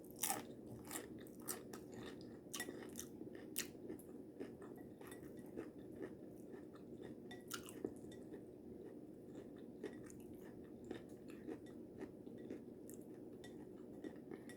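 A person chewing and crunching mouthfuls of taco salad with tortilla chips, in many short, irregular crunches.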